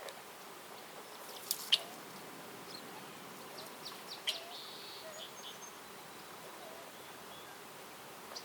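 Forest ambience: a steady low background hum with a few short, sharp bird chirps, the loudest about a second and a half in and again just past four seconds, and a brief buzzy call shortly after.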